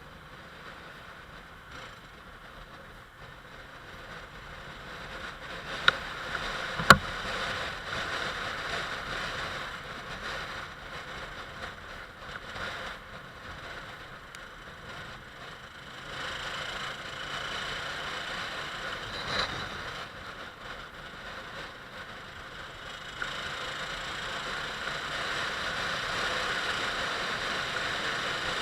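Motorcycle riding noise, mostly wind rushing over the microphone, slowly growing louder, with no clear engine note above it. Two sharp clicks come about six and seven seconds in.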